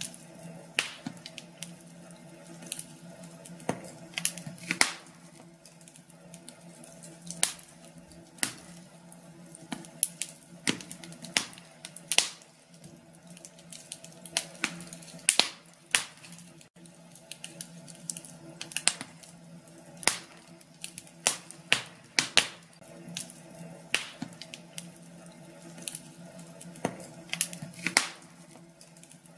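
Wood fire in a fireplace crackling, with irregular sharp pops and snaps, some in quick clusters.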